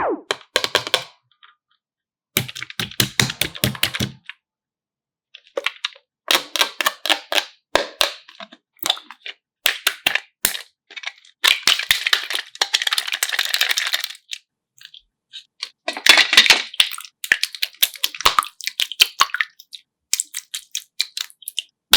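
Close-up bursts of sharp crackling and clicking, several clusters a second or two long. They are separated by short dead-silent gaps.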